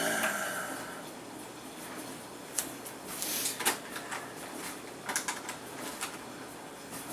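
Scattered light clicks and knocks of a small plastic R/C helicopter being handled and set down, with a short rustle about three seconds in.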